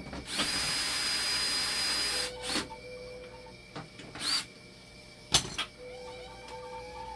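Cordless power screwdriver spinning in a run of about two seconds, its motor whine rising then holding steady, then a short second spin, followed by a sharp click.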